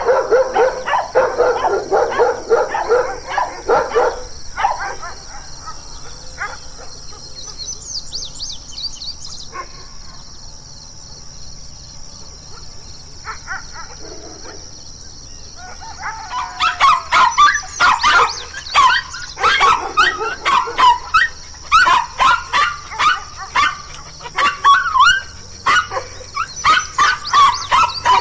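Dogs barking: a burst of rapid, deeper barks over the first few seconds, a quieter stretch, then from about halfway a long run of quick, higher barks, several a second. A steady high-pitched buzz runs underneath.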